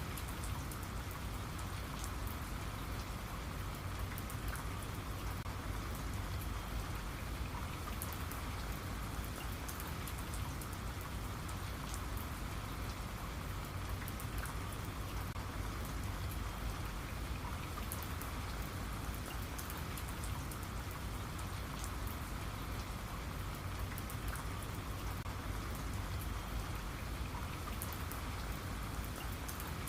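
Steady rain falling on a surface, a continuous even hiss with many small drop ticks throughout.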